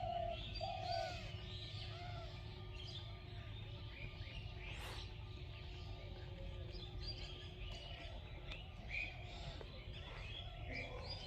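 Several small birds chirping and twittering at once, short calls overlapping throughout, over a faint steady hum.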